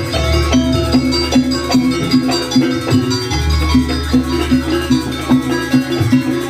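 Banyuwangi gamelan accompaniment for a barong/jaranan dance: metal percussion strikes a low note in a steady beat of about two to three a second, with a deep gong-like tone swelling twice underneath.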